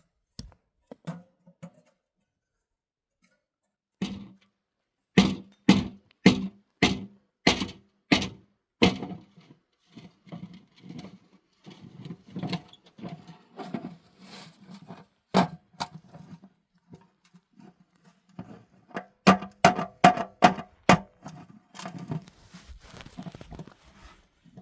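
Runs of sharp knocks, about two a second, with quieter scraping and rustling between them: one run a few seconds in and another near the end.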